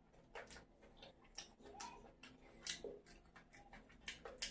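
Close-miked eating sounds: wet chewing and lip smacks from a mouthful of sauce-coated fried chicken lollipop. They come as faint, irregular clicks, about two or three a second.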